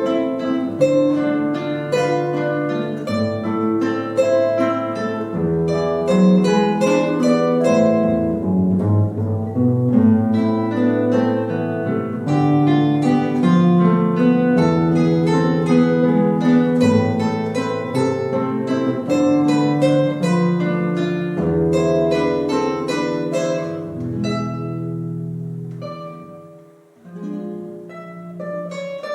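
Plucked string instruments playing a melody over a moving bass line, the notes ringing and decaying after each pluck; the playing grows softer and sparser near the end.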